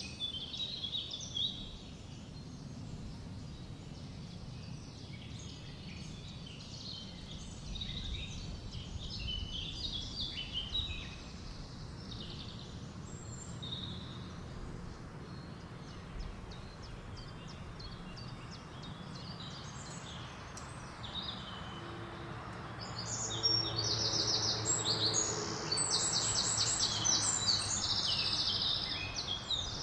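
Several songbirds singing and calling in short phrases over a low wind rumble. In the last quarter one bird breaks into loud, rapid trills, and a low steady drone comes in a little before.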